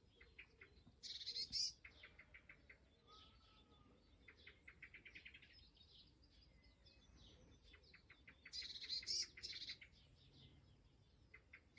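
Faint birdsong: several small songbirds chirping and trilling in quick runs of short high notes, with a louder burst of song about a second in and another later on.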